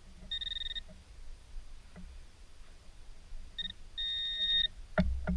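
Metal-detecting pinpointer sounding high-pitched steady beeps as it finds metal in a dug plug of soil: one about half a second long, then a short blip and a longer tone near the end. A sharp knock follows near the end.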